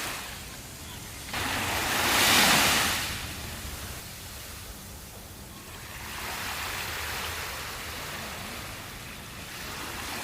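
Sea waves breaking on a sandy beach: one loud wave crashes about a second and a half in and washes out, followed by a softer surge of surf a few seconds later.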